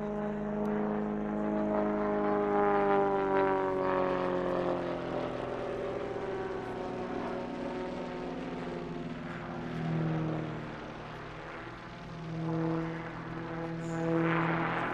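Propeller-driven Extra 300 aerobatic plane flying its display. The engine note falls in pitch as it passes a couple of seconds in, then swells and rises again twice later on as it manoeuvres.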